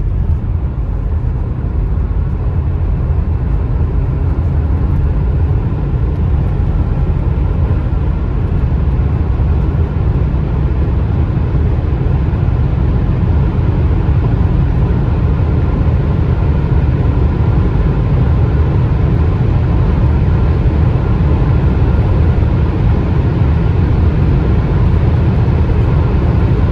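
BMW 525d's two-litre diesel engine pulling hard at full throttle from 100 toward 200 km/h, heard from inside the cabin as a dense low rumble mixed with road and wind noise that grows slowly louder as speed builds.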